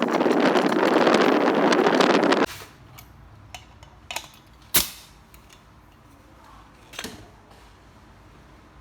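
A steady, loud hiss of rushing air from a workshop air tool stops suddenly about two and a half seconds in. A few sharp clicks follow, the loudest about five seconds in.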